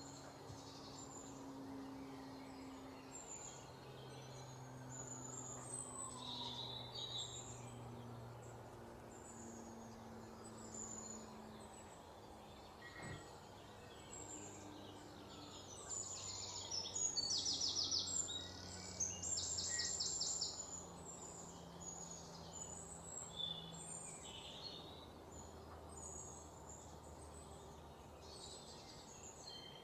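Quiet background of birds chirping at intervals over a low, steady hum. About two-thirds of the way through come two short bursts of rapid, evenly repeated scratchy strokes, the loudest sound here.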